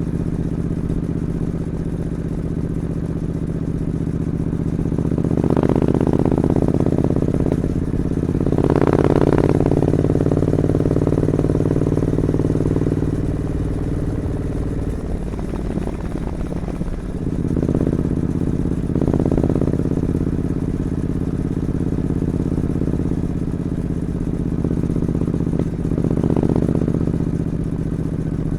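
Triumph Scrambler 900 parallel-twin engine idling through its stock two-into-one exhaust, with several short throttle blips that raise the revs and then drop back to idle.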